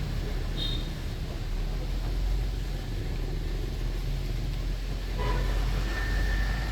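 Double-decker tour bus moving through city traffic: a steady low engine and road rumble with a haze of traffic noise, broken by a few short high tones, one about half a second in, one a little past five seconds, and one held near the end.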